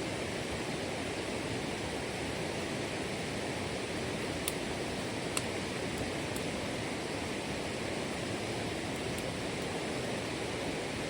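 Steady rush of running water, even and unbroken, with two faint clicks about four and a half and five and a half seconds in.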